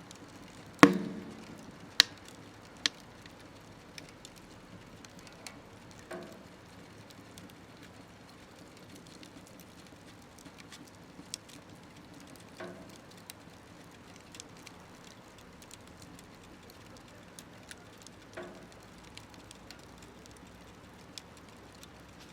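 Wood fire crackling in a small smokeless stove: scattered sharp pops over a quiet bed of crackle, one loud knock about a second in that rings briefly, and a few softer knocks later as the burning wood settles.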